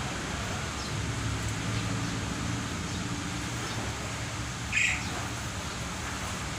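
A caged songbird gives one short, sharp call about five seconds in, with a few faint chirps before it. A steady low hum runs underneath.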